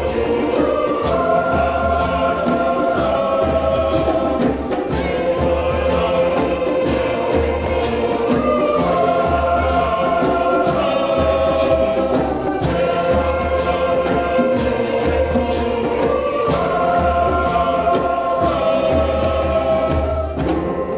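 A choir singing a song in harmony over a steady percussive beat, in repeating phrases; the sound thins out near the end.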